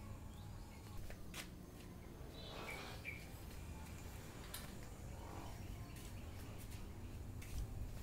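Faint background rumble with a few short bird chirps about two and a half to three seconds in, from cage birds, plus a few light clicks.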